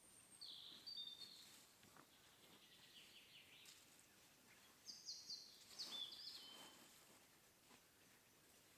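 A songbird singing faintly: two short runs of high chirping notes about four seconds apart, with a softer trill between them.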